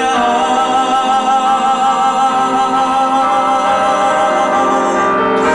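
Taiwanese Hokkien ballad with a male singer holding one long note with vibrato over a backing track; the note ends about five seconds in and the accompaniment moves on.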